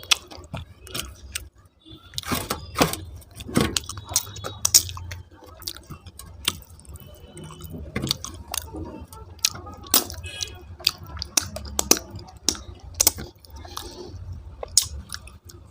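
Eating at the close of a meal: many sharp clinks and clicks with a faint metallic ring, like utensils on a plate, mixed with chewing.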